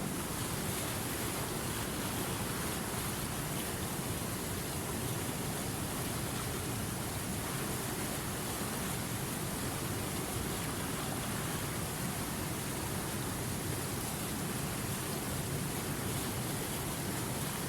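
Running river water: a steady, even rush with no separate splashes or drops.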